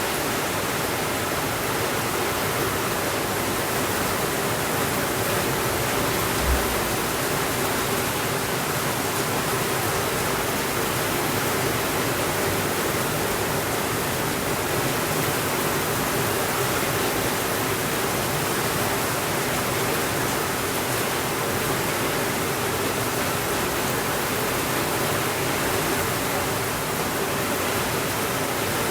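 Steady, even rainfall hiss with no let-up. There is one brief low thump about six and a half seconds in.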